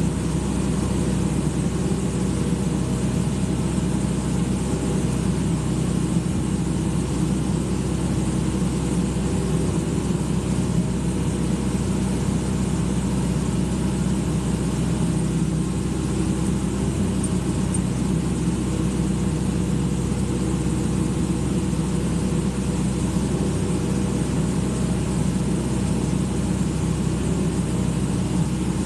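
Excavator's diesel engine running at a steady, unchanging speed, a constant low hum.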